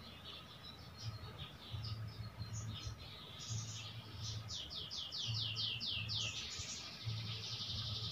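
Small songbird chirping: scattered high chirps, then about halfway through a quick run of about nine falling whistled notes, followed by a buzzy trill near the end.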